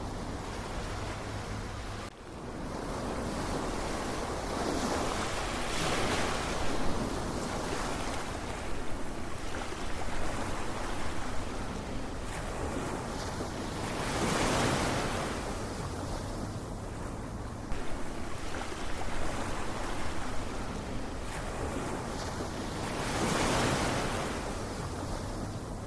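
Ocean surf: a steady wash of waves, swelling as a wave breaks about every eight to nine seconds, three times.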